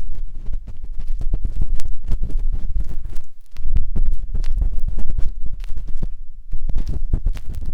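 A matchstick scraping and rubbing inside the silicone ear of a 3Dio binaural microphone: close, dense scratching and crackling over a deep rumbling, with brief pauses about three and a half and six and a half seconds in.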